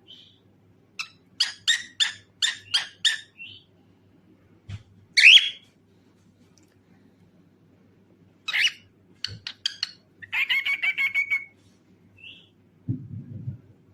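Pet cockatiel calling and singing: a quick run of about six chirps, one loud sharp call about five seconds in, then a fast chattering warble with a held whistle near the end.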